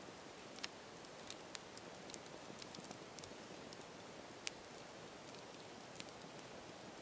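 Campfire burning: a steady soft hiss with irregular sharp pops and crackles from the burning wood, the two sharpest about half a second in and about four and a half seconds in.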